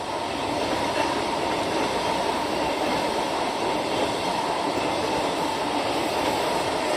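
Train running on the rails: a steady, dense rolling rush with a faint thin whine held above it.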